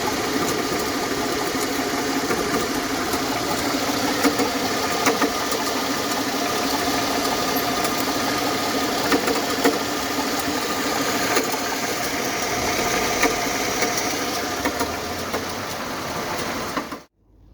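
Mercedes-Benz M112 E32 3.2-litre V6 idling steadily with irregular sharp knocks from under the bonnet. The knock came from worn alternator bearings and a water pump with play, and it went away once they were replaced.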